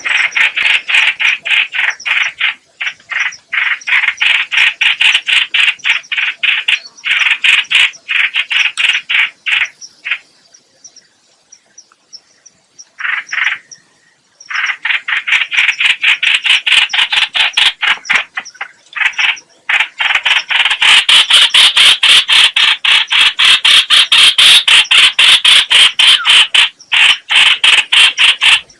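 Trao trảo (chao chảo) bird calling: long runs of rapid chattering notes, many to the second, broken by a gap of a few seconds near the middle. It is a lure-bird call recording, played to draw the same species to a trap.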